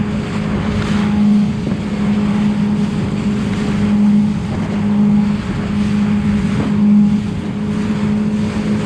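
Motorboat engine running at a steady cruising speed, with a constant hum under a rush of wind and water as the hull runs.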